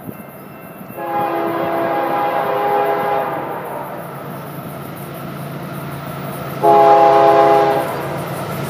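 Diesel locomotive air horn sounding a multi-note chord: one long blast starting about a second in, then a shorter, louder blast near the end, over the low rumble of the passing train.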